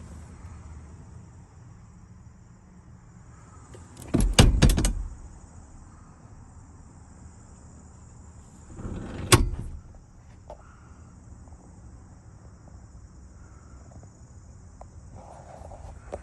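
Pickup truck door handled: a quick run of sharp latch clicks and rattles about four seconds in, then a swing and a single door slam about nine seconds in.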